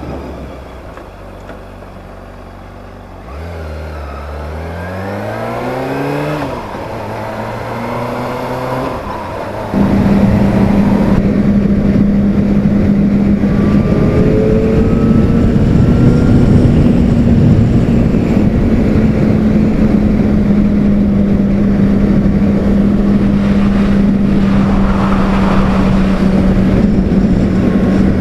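Honda CBR600RR inline-four engine ticking over, then pulling away with revs rising through the gears, with a short dip at a gear change. About ten seconds in it jumps suddenly louder to a steady cruising drone under heavy wind rush on the microphone.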